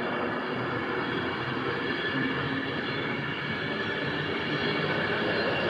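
Avanti West Coast passenger train running past close by: a steady rumble of wheels on the rails with a faint hum, growing a little louder near the end.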